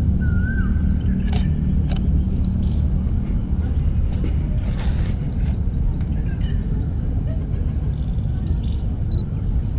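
Outdoor ambience with a steady low rumble, a bird's short chirping call near the start, and two sharp clicks about a second and a half and two seconds in.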